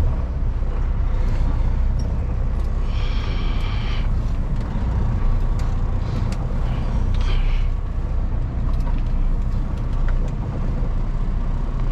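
Kenworth W900L semi truck's Cummins X15 diesel running under way, a steady low rumble heard from inside the cab. A brief hiss comes about three seconds in and again around seven seconds.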